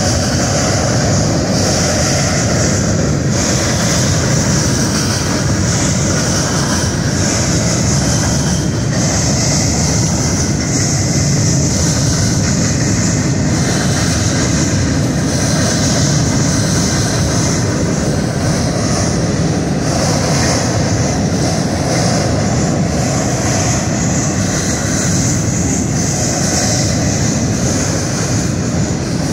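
CSX freight train cars rolling across a steel truss railroad drawbridge: a steady rumble with a hiss on top that swells and fades every second or two.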